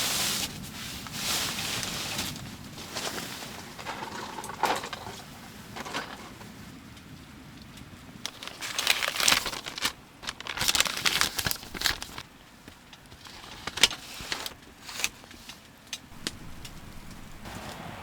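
Irregular rustling and crinkling with scattered clicks and knocks, as of gear being handled, busiest about halfway through.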